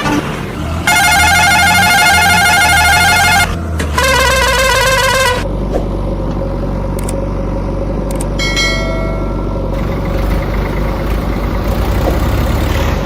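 Electronic sound effects from a battery-operated toy truck: two bursts of warbling, ringing horn tones, then a steady engine rumble with a brief run of falling chirps partway through.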